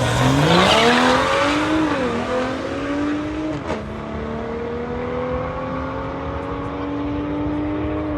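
Car engine accelerating hard through the gears: its pitch climbs, drops at upshifts about two seconds and three and a half seconds in, then climbs slowly through a long pull. It is loudest in the first second.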